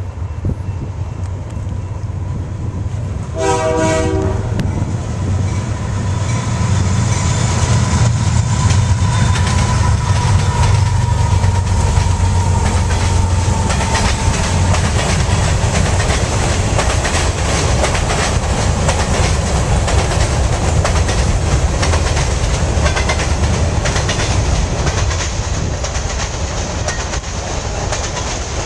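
Freight train passing close by: one short horn blast about three and a half seconds in, then the heavy low rumble of the locomotives going by, followed by a steady clatter of loaded-sounding covered hopper cars rolling past over the rail joints.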